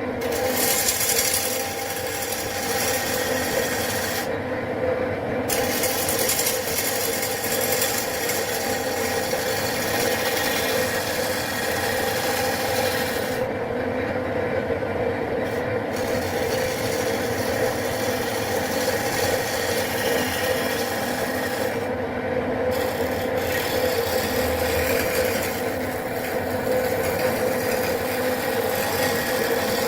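Wood lathe running while a tool or abrasive works the spinning wooden plate blank: a steady scraping rasp over a constant motor hum. The higher scraping drops out briefly about four seconds in, again for a couple of seconds near the middle, and once more about two-thirds of the way through.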